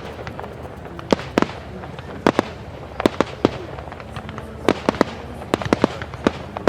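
Fireworks display: a rapid, irregular string of sharp bangs from bursting aerial shells over a steady rumbling background.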